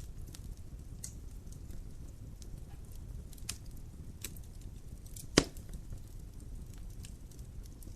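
Dry firewood burning in a fireplace: a steady low rumble of flames with scattered small pops and crackles, and one loud sharp crack about five and a half seconds in.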